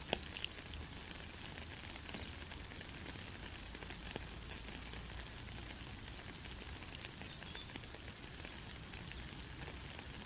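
Steady white-noise hiss for lulling a baby to sleep, with a fine crackle like rain or sizzling and a few faint scattered clicks.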